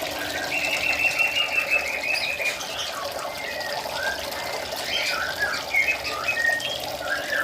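Small birds chirping and calling: short high notes of varied pitch, with a longer quavering trill starting about half a second in, over a steady hiss.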